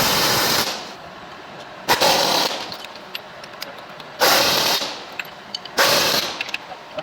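Pneumatic impact wrench run in four short rattling bursts, each about half a second to a second long, as nuts are run on during truck assembly.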